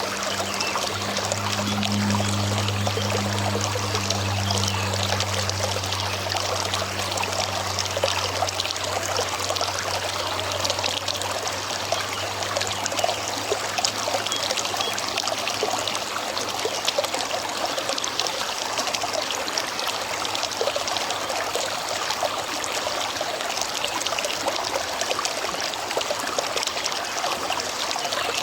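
River water flowing and trickling steadily. A low droning hum sits underneath at first and fades away about halfway through.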